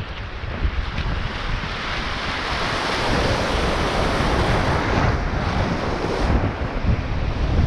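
Sea waves washing, with wind buffeting the microphone in a constant low rumble; the rush of water swells for a couple of seconds in the middle.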